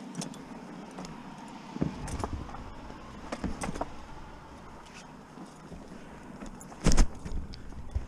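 Metal gear jingling and clinking, with scattered knocks and one loud thump about seven seconds in.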